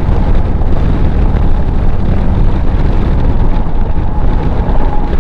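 Harley-Davidson Street Glide's stock 117 cubic-inch V-twin running steadily at road speed, heard through a helmet-mounted camera with wind rushing over the microphone.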